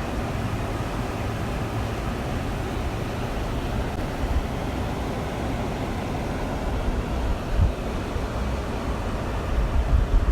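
Water flowing and splashing over rocks in a stream, a steady rushing sound, with low gusts of wind on the microphone near the end.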